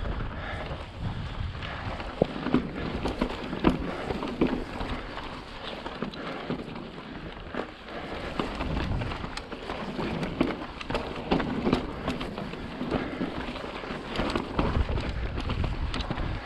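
Mountain bike rolling fast over rough slickrock: knobby tyres grinding on the rock, with frequent knocks and rattles from the bike and wind rumbling on the microphone.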